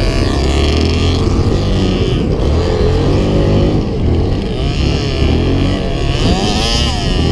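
Off-road engines of quads and dirt bikes running and revving, their pitch rising and falling again and again.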